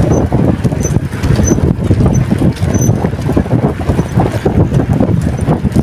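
Wind buffeting a handheld phone's microphone while riding a bicycle, a loud uneven rumble. A faint high squeak recurs about every two-thirds of a second.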